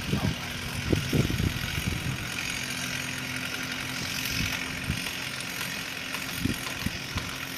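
An engine idling steadily, with a few short low thumps about a second in and near the end.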